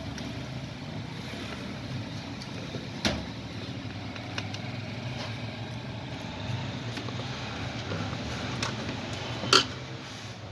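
Clicks and knocks of the plastic parts of a Bluetooth speaker being handled as its battery bracket is fitted back, over a steady low background rumble. One sharp click comes about three seconds in and a louder one near the end.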